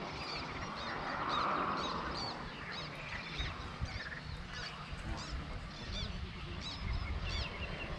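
Birds chirping: short, high calls repeated about twice a second over a low rumble, with a brief hiss about a second in.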